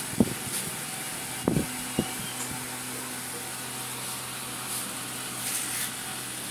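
Three short knocks, the first about a fifth of a second in and two more around a second and a half and two seconds in, over a steady low hum, with a brief faint hiss near the end.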